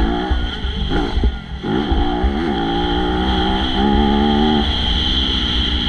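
MX2 motocross bike engine revving hard, its pitch rising and falling in quick swoops through the gears, then holding a steadier note for a couple of seconds, over a constant low rumble.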